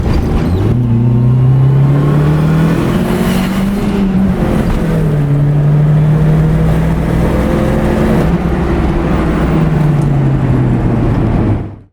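Turbocharged QG18 four-cylinder engine running through a 3-inch straight exhaust with no silencer. Its pitch rises and holds, dips briefly, then rises and holds again before easing back down.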